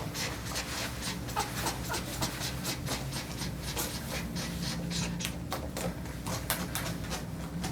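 A brush raking repeatedly through a dog's coat, several quick scratchy strokes a second, over a faint steady low hum.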